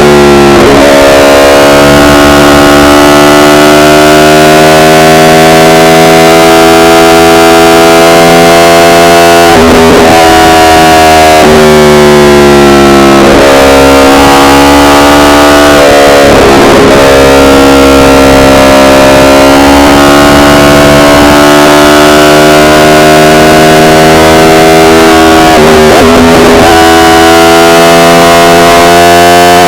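Yamaha R1 inline-four engine running under way. Its note climbs slowly and dips briefly about four times, with steady stretches between. The recording is so loud that it clips and sounds distorted, almost like an overdriven guitar.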